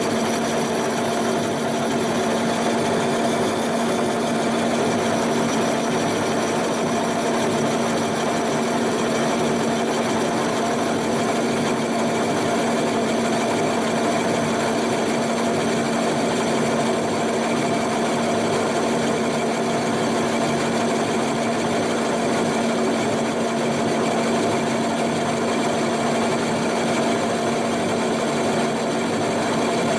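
Metalworking machine tool running steadily, with a constant hum over a broad mechanical noise and no change in speed or load.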